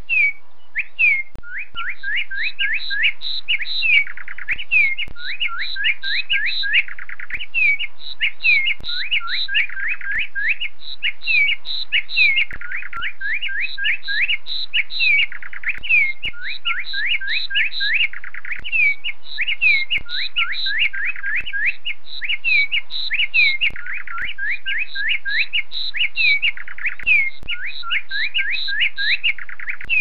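Songbird chirping: a fast run of short, clear, rising chirps, about four a second, repeated in the same pattern over and over, with faint clicks now and then.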